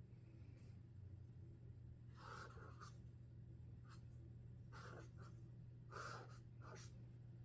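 Sharpie Creative Markers scratching in short, faint strokes as someone draws. A cluster of strokes comes about two seconds in, and more follow every second or so until near the end.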